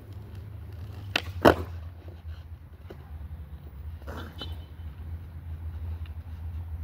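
Skateboard clacking twice, about a third of a second apart, a little over a second in, the second clack the louder; a softer knock and scrape follows around four seconds, over a steady low rumble.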